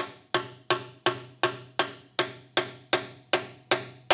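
Hammer blows on a seal driver, tapping a new axle seal into a GM 12-bolt rear axle housing: steady, evenly spaced strikes about three a second, each ringing briefly.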